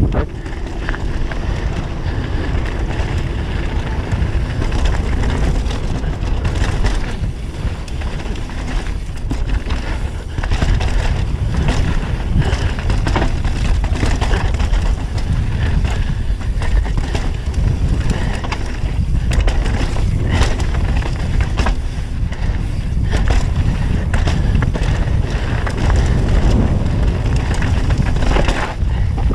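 Mountain bike riding down a dirt trail: a continuous rumble of tyres over the ground and wind on the microphone, with frequent knocks and rattles from the bike over bumps.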